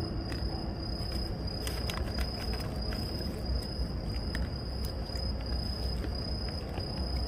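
An insect, cricket-like, singing a steady high-pitched trill without a break, over a low steady rumble, with a few faint scattered clicks.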